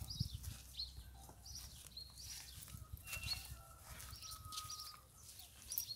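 Birds chirping faintly in short, repeated calls, with a couple of longer whistled notes partway through.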